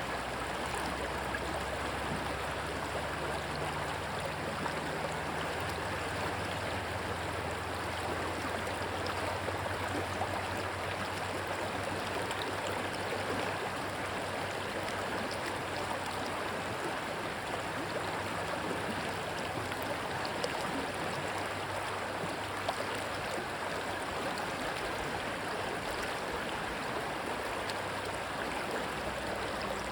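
Rushing stream water, a steady, even rush. A low drone sits underneath and fades out near the end.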